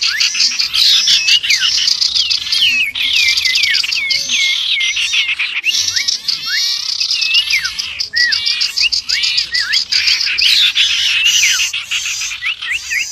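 Dense mix of small songbirds chirping and whistling over one another: a bird-trapping lure recording built around the common iora (cipow) mixed with other species. The track breaks off and restarts abruptly every few seconds, like spliced segments.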